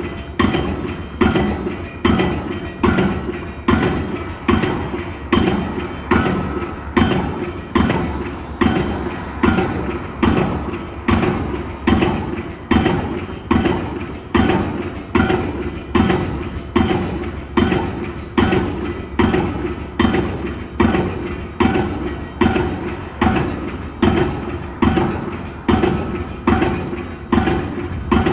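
Steady, evenly paced impacts at a construction job, a little more than one blow a second, each striking sharply and dying away quickly, in the manner of repeated hammering.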